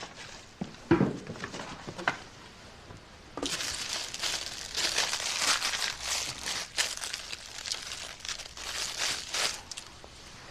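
Packaging crinkling and rustling as it is handled, dense from about three seconds in until near the end, after a few light knocks.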